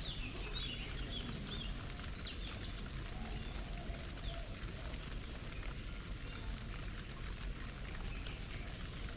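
Small birds splashing in a garden bird bath, with a quick run of short, high chirps in the first couple of seconds.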